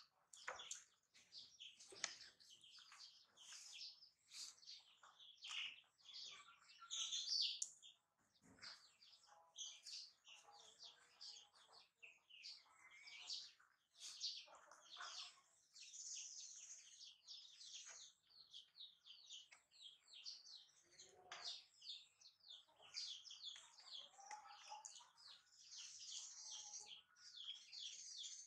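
Small birds chirping and twittering continuously, faint.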